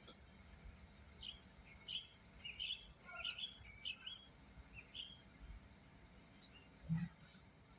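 A bird chirping: a quick series of short, high chirps lasting about four seconds, then a single brief low thump near the end.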